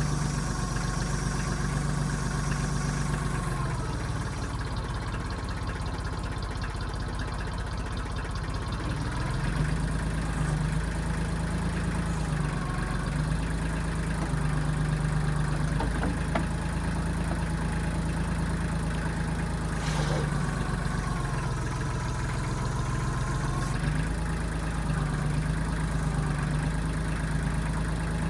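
1995 Kubota backhoe's diesel engine running under changing load while it works, its note rising and falling every several seconds, with a faint wavering whine and a couple of brief clanks.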